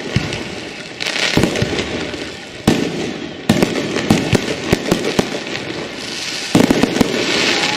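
Fireworks going off in quick clusters of sharp bangs, with a hissing crackle after some of the bursts.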